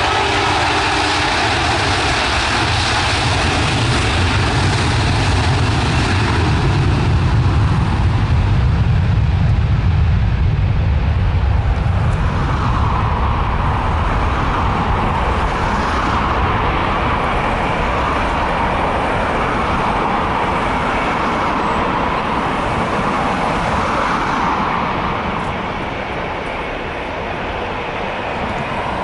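Airbus A330-300 jet engines at takeoff power: a deep rumble that swells to its loudest about a third of the way in, then eases into a broad roar that fades a little near the end as the aircraft moves away.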